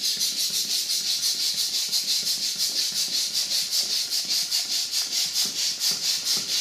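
Air rushing out of an inflated balloon through a balloon helicopter toy's rotor nozzles: a steady hiss that pulses evenly about seven times a second as the blades spin.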